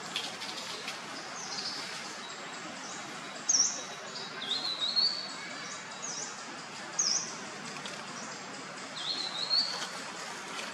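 Birds chirping: short high chirps and quick rising calls, a few seconds apart, over a steady background hiss.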